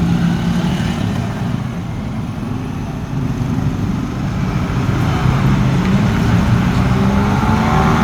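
Scania truck engine running steadily, then getting louder and rising in pitch from about five seconds in.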